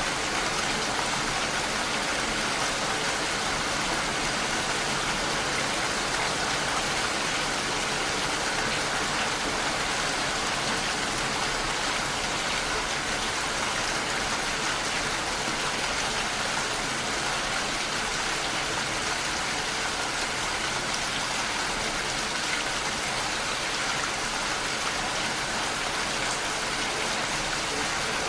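Steady rain falling and pattering against a window pane, an even hiss with no breaks.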